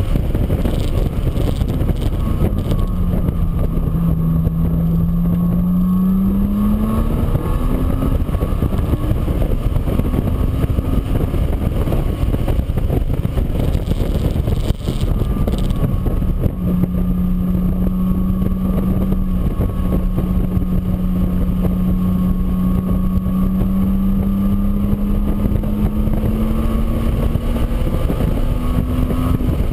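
An engine running under heavy rushing noise. Its pitch drops and then rises over the first few seconds, then holds steady and slowly climbs.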